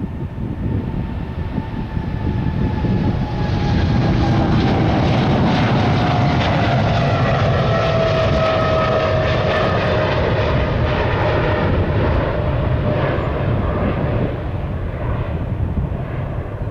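Boeing 777-300 twin-engine jet on its takeoff run and climb-out, a loud jet-engine roar that builds over the first few seconds and then fades. The engine whine slides slowly down in pitch as the aircraft passes.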